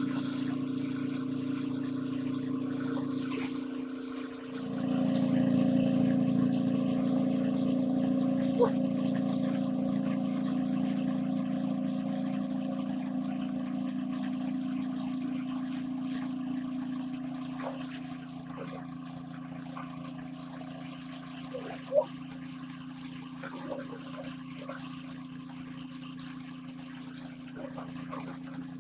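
A small engine running steadily. About four seconds in it dips briefly and comes back louder, then grows slowly quieter over the second half; a single sharp knock sounds about twenty-two seconds in.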